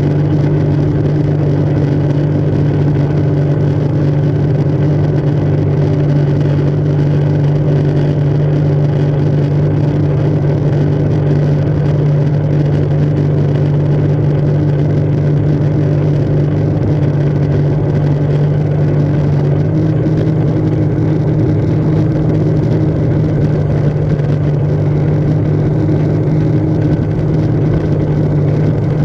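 Jet ski engine running at a steady speed, its pitch stepping up slightly about two-thirds of the way through.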